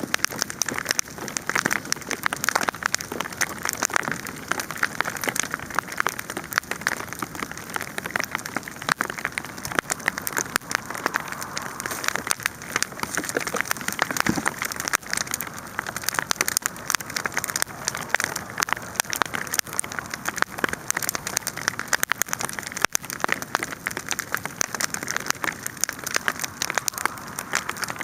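Wood fire crackling steadily, with dense rapid pops and snaps over a constant hiss of burning.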